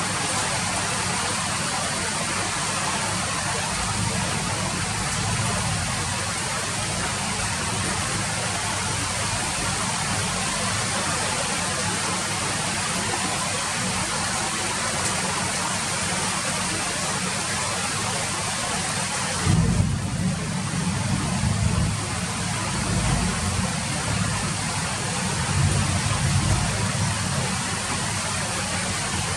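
Steady rain falling, an even hiss. From about two-thirds of the way through, irregular low rumbles come and go for several seconds.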